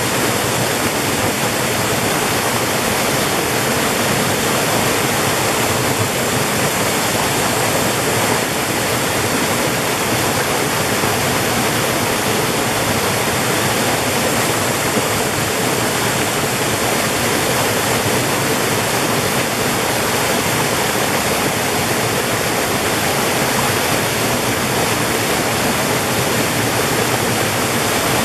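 Water of a mountain valley stream rushing steadily, a dense, even rush with no let-up.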